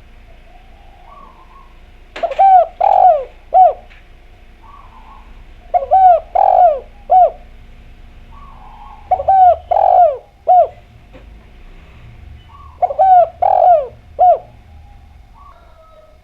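Spotted dove (derkuku) singing: four phrases of three coos each, short, long, short, repeated about every three and a half seconds. Each phrase is led by a soft, low note.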